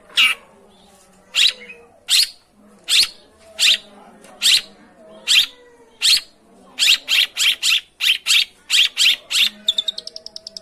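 Long-tailed shrike giving loud, short, harsh calls, about one every 0.7 seconds. The calls come faster from about seven seconds in, followed by a quick run of rapid ticking notes near the end.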